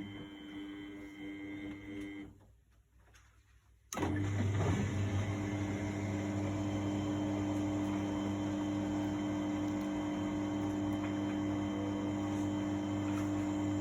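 Miele Novotronic W828 front-loading washing machine: a fainter hum stops about two seconds in, then about four seconds in a motor starts abruptly and keeps running with a steady, even hum at a constant pitch.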